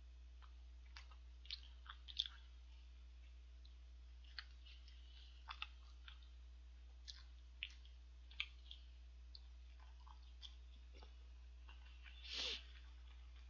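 Close-miked chewing and biting of a hamburger: soft, scattered mouth clicks and crunches. A short, louder breath comes about twelve seconds in.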